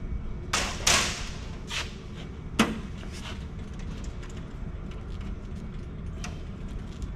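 Circuit boards and metal rack parts being handled: a few scraping knocks in the first two seconds, a sharp click at about two and a half seconds, and a fainter click near the end.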